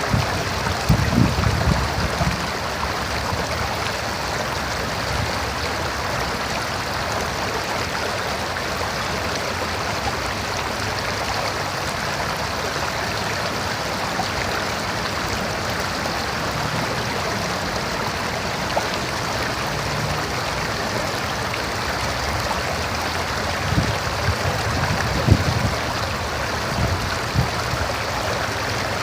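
River water flowing steadily, with brief low rumbles about a second in and again near the end.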